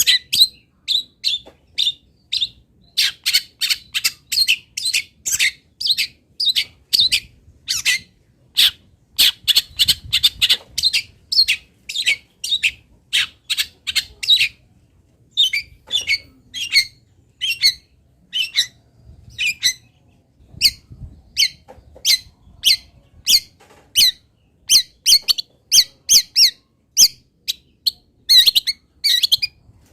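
A songbird calling in a fast, unbroken run of short, sharp, partly harsh notes, about two to three a second, the song-filler pattern played to train long-tailed shrikes.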